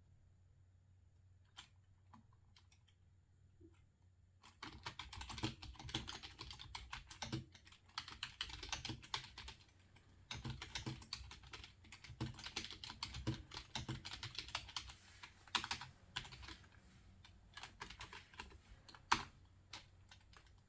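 Typing on a computer keyboard: a few isolated key clicks, then from about four seconds in, quick runs of keystrokes broken by short pauses, with one louder click near the end.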